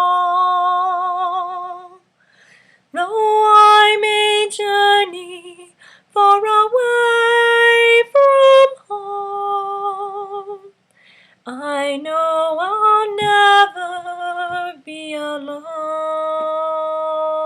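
A woman singing a slow hymn with no accompaniment. She holds long notes with vibrato in several phrases, with short breaks between them, and ends on a long held note.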